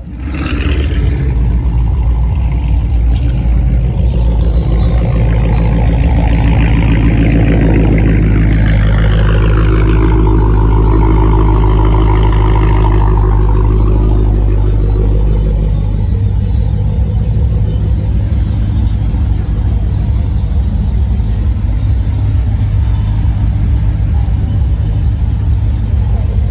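Car engine running loud and close, with a heavy low rumble throughout. It is revved up and down in the middle, and the rumble eases about two-thirds of the way in.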